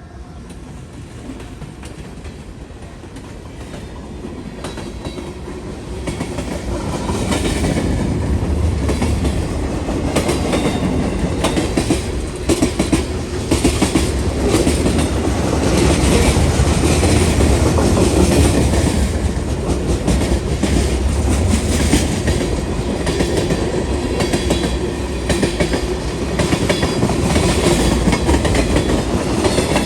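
CSX freight train approaching and rolling past, growing louder over the first several seconds and then holding at a steady heavy rumble, with the clickety-clack of wheels passing over rail joints.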